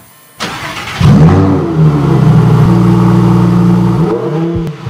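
High-performance car engine revving. It comes in loudly about a second in, climbs in pitch and holds high, then drops just after four seconds with a short blip near the end.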